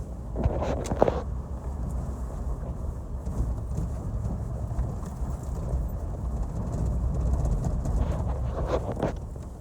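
Off-road 4x4 driving slowly over a rough gravel forest track: a steady low rumble of engine and tyres, with clusters of knocks and clunks from stones and the suspension about a second in and again near the end.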